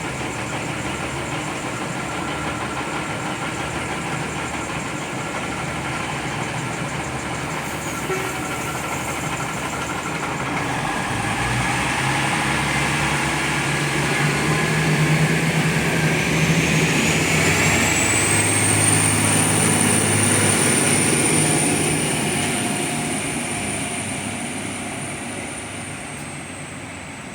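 A diesel train passing along the line. Its engine note grows louder to a peak in the middle, a high whine rises and then holds, and the whole sound fades away near the end.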